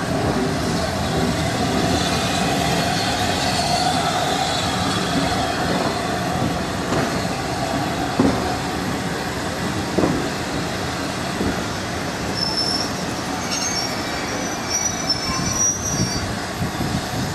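Passenger train coach rolling slowly through a station, heard from an open carriage window: steady wheel-on-rail rumble with a faint wheel squeal and a few clicks as the wheels cross rail joints.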